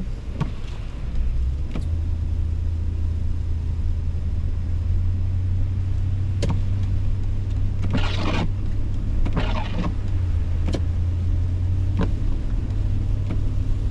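Steady low drone of a car's engine and tyres heard inside the cabin, with windshield wipers sweeping in short strokes about every second and a half. A hard piece of snow is stuck on the wipers.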